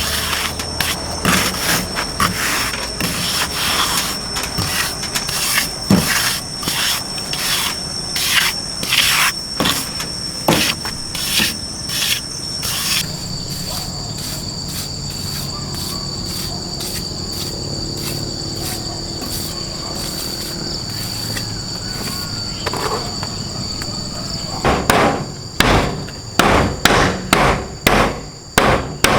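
Insects drone as a steady high-pitched whine that shifts pitch partway through. Over it come irregular hammer knocks in the first half, a quieter spell, and then steady hammer blows about twice a second near the end.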